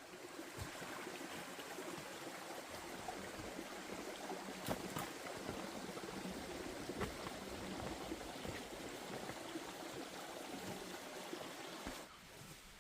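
Water running or trickling steadily, with a few faint knocks, stopping abruptly about twelve seconds in.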